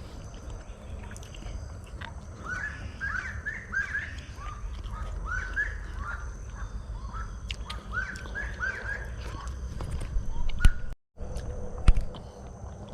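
A bird calling in a run of short, rising chirps, several a second, over a steady high trilling of insects. The sound cuts out for a moment near the end.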